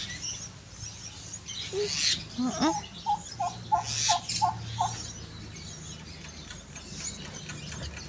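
A bird calling: a short rising call, then a run of about six short, clear notes at roughly three a second, about three seconds in.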